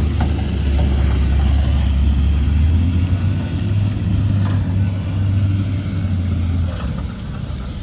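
Heavy diesel engine of an earthmoving machine running steadily with a deep drone, dropping off about seven seconds in.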